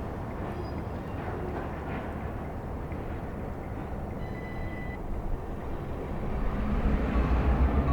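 Diesel locomotives approaching, a low engine rumble over wind noise that grows louder over the last couple of seconds.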